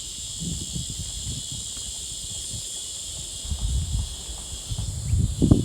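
Steady, high-pitched insect chorus, with low rumbling thumps on the microphone that grow louder near the end.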